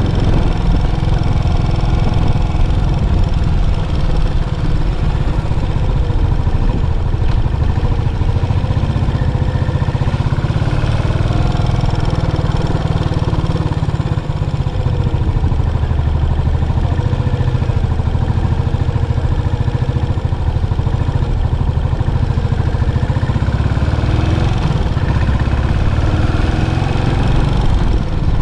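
Yamaha SR400's air-cooled 399 cc single-cylinder engine running through its stock muffler, a steady loud low sound with slow small rises and falls in pitch.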